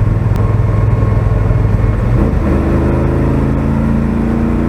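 Truck engine running under way; its note changes about two seconds in and then settles to a new steady pitch.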